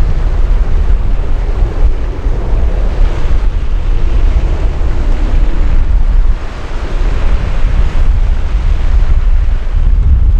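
Strong wind buffeting the microphone: a loud, gusting low rumble with a hiss over it.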